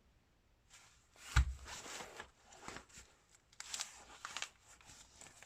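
Handling noise from a large folding reflector windscreen being picked up and shifted: a thump about a second and a half in, then bursts of rustling and light clattering.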